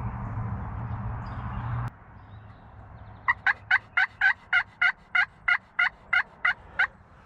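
Wild turkey yelping: a run of about a dozen loud, evenly spaced yelps, each dropping in pitch, about three a second. Before it, a steady low rumbling noise that cuts off abruptly about two seconds in.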